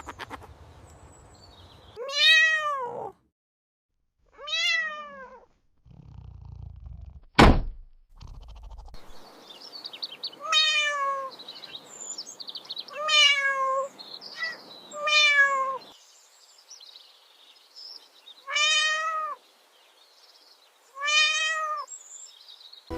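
A cat meowing again and again: seven separate meows, each rising then falling in pitch. A single heavy thump lands about seven seconds in.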